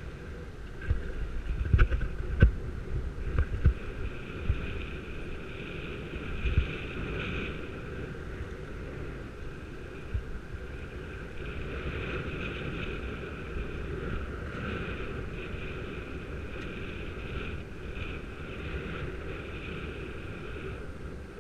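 Wind rushing over a helmet-mounted camera's microphone while cycling, with a cluster of loud knocks and thumps from about one to four seconds in and one more a little later.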